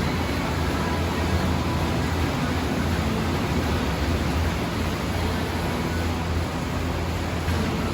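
An engine running steadily: a constant low drone with hiss over it.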